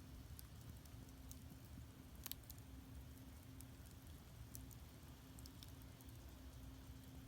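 Firewood burning in a traditional Korean agungi firebox, giving faint, sparse crackles and pops over a low rumble, with one sharper pop about two seconds in.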